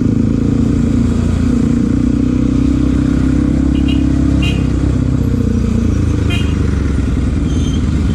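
Bajaj Pulsar NS200 motorcycle's single-cylinder engine running steadily while riding, with a few short high chirps about halfway through.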